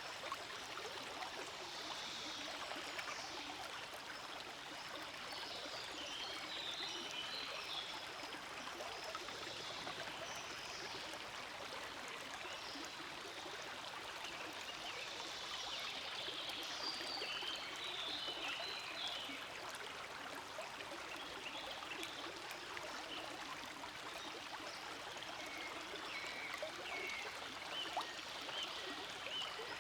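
Forest stream flowing: a steady rush of water, with lighter trickling and splashing that comes and goes.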